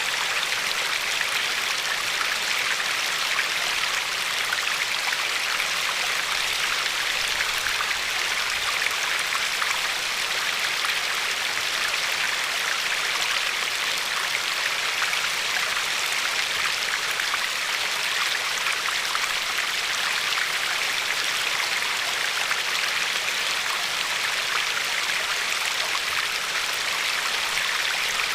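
River water flowing and lapping along a pebbly shore: a steady rushing hiss with a fine crackle of small splashes.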